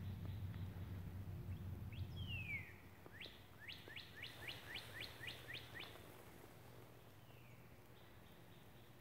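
A songbird singing: one down-slurred whistle, then a quick run of about eight rising notes, about three a second, and a faint down-slur near the end. A low engine drone underneath drops away about two and a half seconds in.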